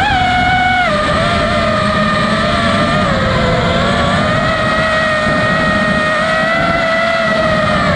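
FPV freestyle quadcopter's brushless motors and propellers whining over a rushing airflow noise. The whine's pitch follows the throttle, dropping about a second in, then drifting slowly up and down.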